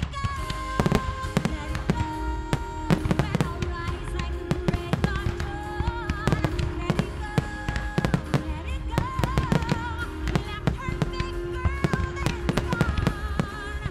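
Fireworks going off in many sharp bangs and crackles, one after another, over the show's music soundtrack.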